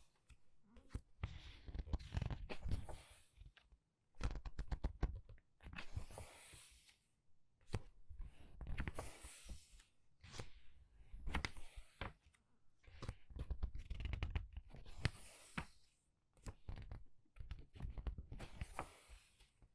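Pages of a printed book being turned by hand, quickly but gently: a soft paper rustle with a flap or snap for each page, about one every couple of seconds with short quiet gaps between.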